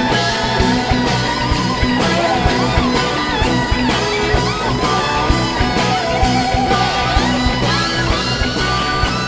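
Rock band playing an instrumental passage: a lead electric guitar solo with bent, sliding notes over bass and steady drums.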